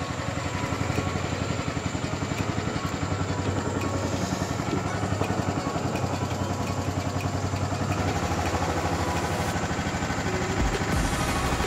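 A small engine running steadily, with a rapid, even pulsing throb.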